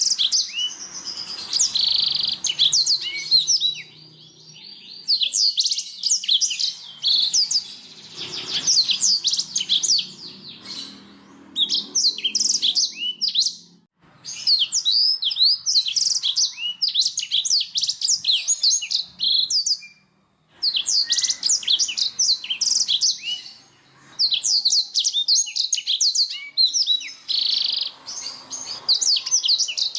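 Canary singing: long runs of rapid, high, sweeping trills in phrases of several seconds, broken by short pauses. It is a canary song recording of the kind played to cage birds to get them singing.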